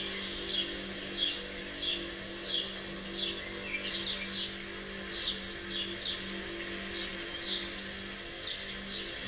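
Songbirds chirping, short calls repeating about every half second with a few rapid high trills, over a steady low drone.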